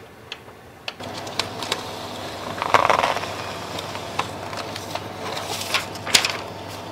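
HP LaserJet 4600 colour laser printer starting up and running its test, its motors and gears whirring steadily with many clicks and a louder stretch a couple of seconds in. The run starts about a second in and is the printer's test after the repair.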